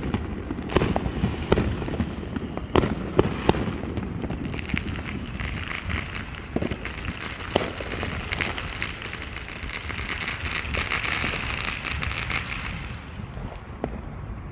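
Fireworks going off: several sharp bangs in the first few seconds, then a long stretch of dense crackling that dies away near the end.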